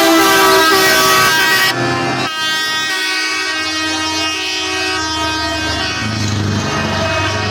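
Truck air horns sounding a loud multi-note chord that cuts off about two seconds in, followed by further horn chords that shift pitch about six seconds in.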